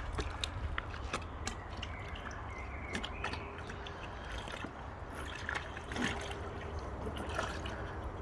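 Water in a paddling pool splashing, sloshing and dripping as boxer dogs wade through it and grab floating toys, with many small irregular splashes and drips.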